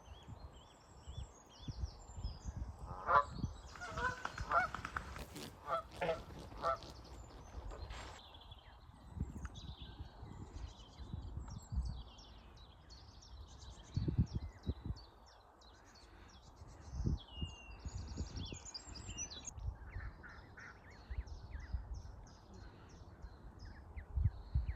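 Canada geese honking, a run of calls about three to seven seconds in, with small birds chirping throughout. Occasional low rumbling thumps sound under the birds.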